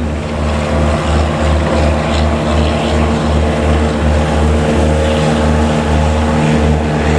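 Fishing boat's engine running steadily, with a low throb pulsing about twice a second.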